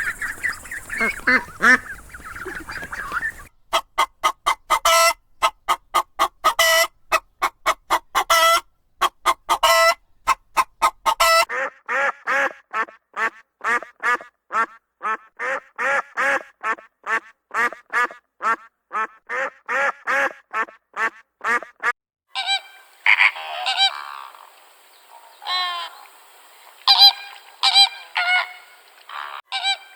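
Animal calls in several short clips, one after another. Each clip is a quick series of short, honking calls repeated two to three times a second.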